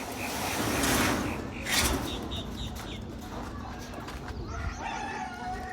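Birds calling: a quick run of short high chirps after two brief rushing noises about one and two seconds in.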